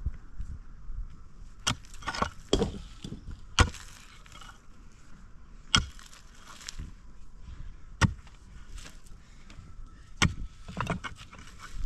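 A series of sharp strikes, irregularly spaced a second or two apart, with lighter knocks and clatter between them.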